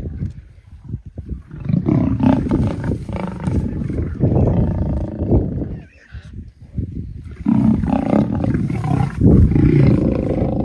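Lions fighting, roaring in two long bouts of about four and three seconds with a short lull between.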